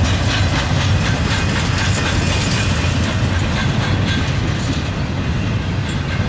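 Double-stack intermodal container train rolling past: a steady low rumble of the well cars, with the wheels clicking rhythmically over the track.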